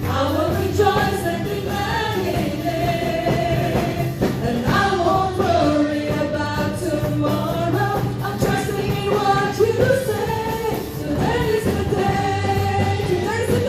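Worship song: voices singing a melody over instrumental backing with a steady low bass.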